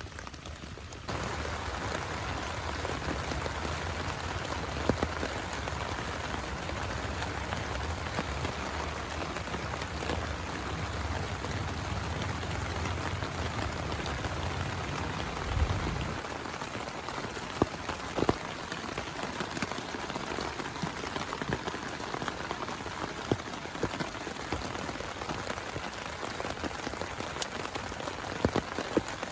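Steady heavy rain falling, with now and then a single louder drop hitting close by. A low rumble runs underneath and stops about halfway through.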